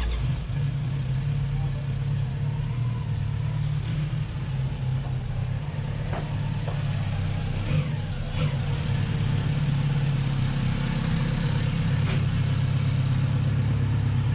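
Motorcycle engine idling steadily, with a few faint clicks over it.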